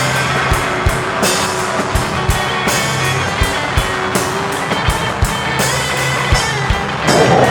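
Live rock band playing an instrumental passage: electric guitar over a drum kit keeping a steady kick-drum beat, with cymbals washing on top.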